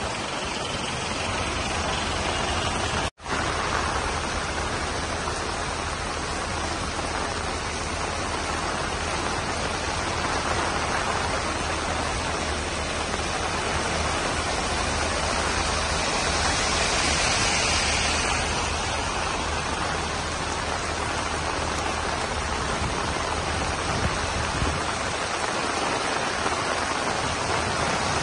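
Heavy monsoon rain pouring onto a waterlogged street as a steady hiss, with a brief dropout about three seconds in.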